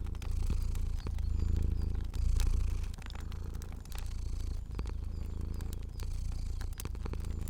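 Domestic cat purring, a deep rumble that swells and eases with each breath about once a second, with scattered sharp pops of a crackling fire over it.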